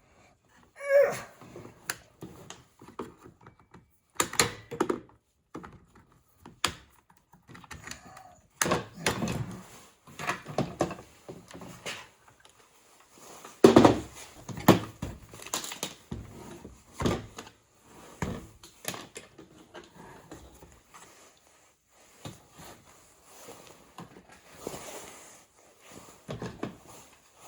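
Irregular knocks, clicks and clatter of the plastic housing and parts of a Bissell floor scrubber being handled and pried apart during teardown, the loudest knock about halfway through.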